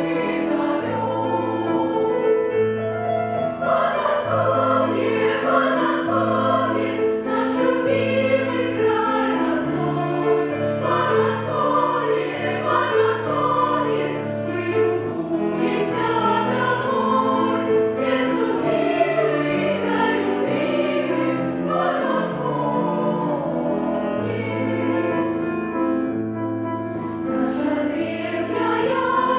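Children's choir singing a song in unison over an instrumental accompaniment with a steady, repeating bass line and a light beat.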